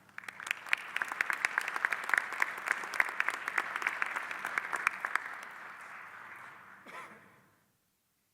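Audience applauding, dense clapping that tapers off and dies away about seven seconds in.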